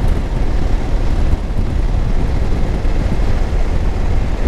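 Steady wind rush and low rumble from riding a 2021 Honda Africa Twin motorcycle, its engine running under the wind buffeting the microphone.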